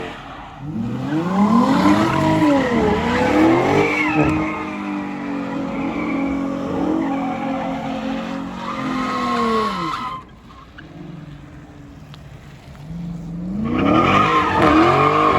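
Car engine revving hard with tyres skidding and squealing, as in a burnout or donut: the revs swing up and down, then hold high for several seconds before dropping off suddenly, and the engine revs up again near the end.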